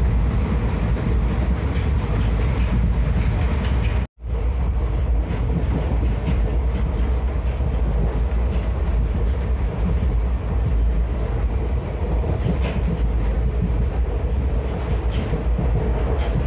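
Maurya Express train running at speed: a steady heavy rumble of wheels on rail with faint recurring clicks. The sound cuts out for a split second about four seconds in.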